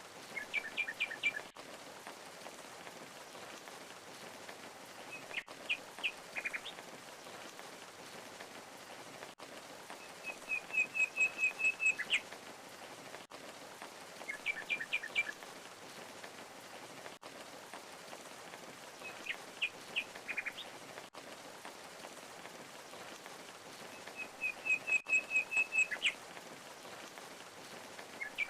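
Steady rush of falling water with a songbird repeating short chirped phrases every few seconds, twice as a longer trill of quick even notes.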